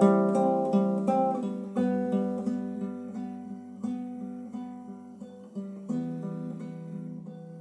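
Acoustic guitar playing an instrumental passage of plucked and strummed chords, with a low bass note held for a few seconds from about two seconds in.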